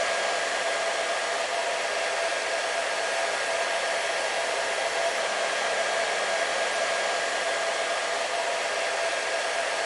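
Hair dryer running continuously at a steady speed: an even rush of blown air with a constant motor whine, unchanging throughout.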